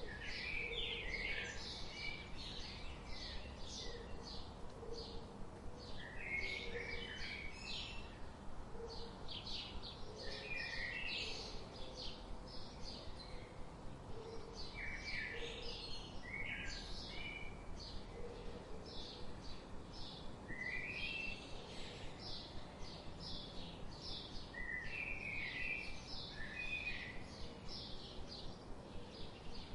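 Songbirds singing: a steady run of many short, high chirps and trills, with soft, short low calls repeating underneath.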